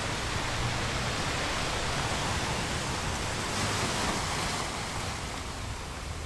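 Small waves breaking and washing up a beach: a steady hiss of surf that swells briefly about four seconds in, then eases off near the end.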